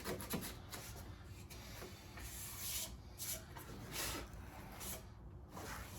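Faint, irregular rubbing strokes as dust and dirt are cleared off a car's door jamb, each stroke a short hiss.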